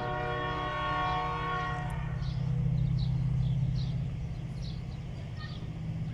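Locomotive DH-428's horn sounding a held multi-tone chord that cuts off about two seconds in, over the steady low drone of its diesel engine, which swells louder just after the horn stops as the locomotive moves off.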